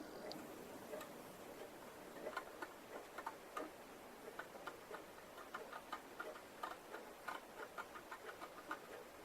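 Faint, irregular ticking and light scratching of a hand tool working the plastic of a scale model aircraft kit. The ticks come about two to three a second from about two seconds in.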